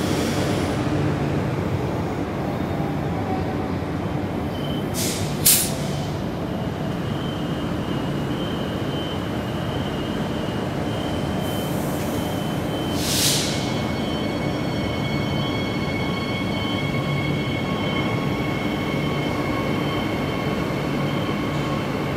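A Queensland Rail electric passenger train at a station platform, running with a steady rumble. There are two short, sharp hisses about five seconds in and another about thirteen seconds in, and steady high-pitched whines from about five seconds on, with more joining around fourteen seconds.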